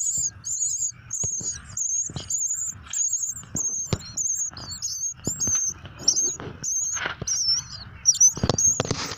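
Small birds chirping: a steady run of short, high chirps, two or three a second. Under them are scattered knocks and rustles, loudest near the end.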